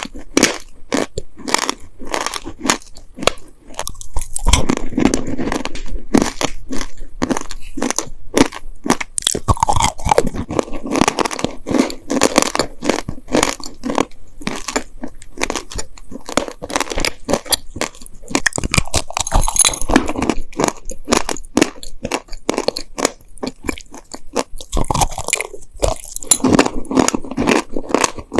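Close-miked chewing of dry, sandy clay cookies: a dense run of crunching and gritty crackling as the clay breaks up between the teeth, getting heavier in several stretches.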